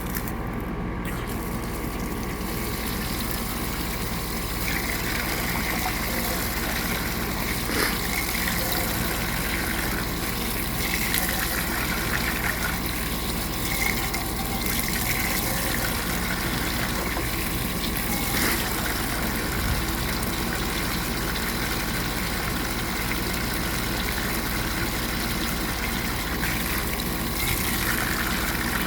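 Water running steadily from a faucet into a small grill grease-catch container, filling and splashing as the container is rinsed out, with a few brief knocks.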